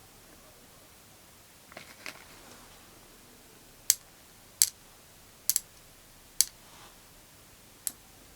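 Five sharp, short clicks spread over about four seconds, one of them doubled, after a few softer handling sounds.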